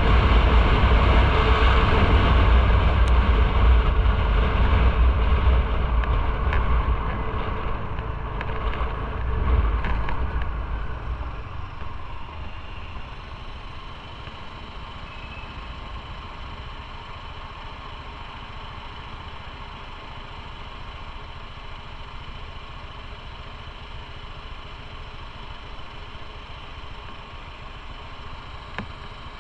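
Motorcycle riding, a loud low rumble of wind and engine that eases off about eleven seconds in, falling to a quieter, steady engine sound as the bike slows.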